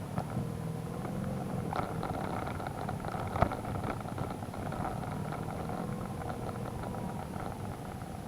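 Adventure motorcycle engine running steadily at low speed over rough, muddy ground, with small rattles from the bike and one sharp knock about three and a half seconds in.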